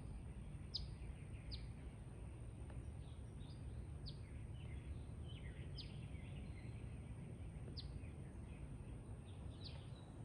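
Birds chirping: short, sharp, descending chirps every second or two, over a faint, steady low rumble of outdoor background noise.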